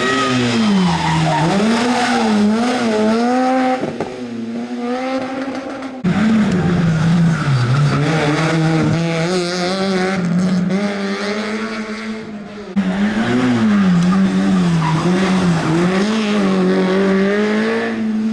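Rally car engines at full load on a special stage, the pitch rising and dropping again and again as the drivers rev, shift and brake for corners. The sound changes abruptly about 6 and 13 seconds in, as a different car takes over.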